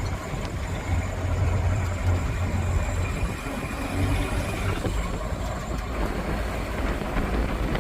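Truck driving on a bumpy road, heard from riding in its open back: a steady low engine and road rumble with wind noise.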